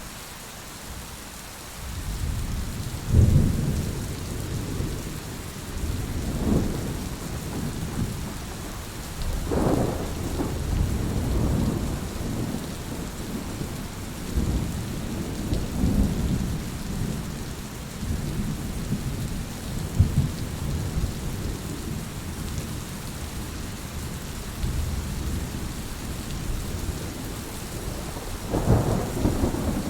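Heavy rain falling steadily, with thunder rolling low over it in repeated swells. The thunder starts a couple of seconds in, and its strongest rumbles come about three seconds in and again near the end.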